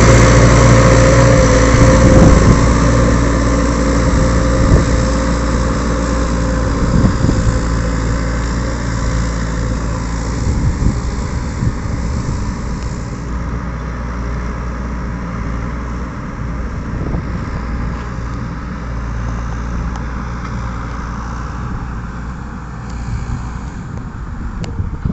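Ford 7000 tractor's four-cylinder diesel engine running steadily while ploughing, its sound fading gradually.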